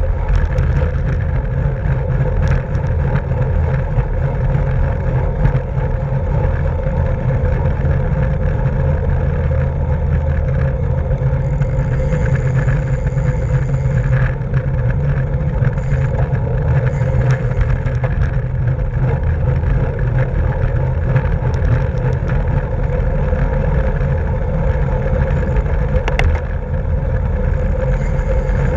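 Steady rush of wind on the microphone with tyre and road noise from a racing bicycle moving at speed, a heavy low rumble throughout with a few faint ticks.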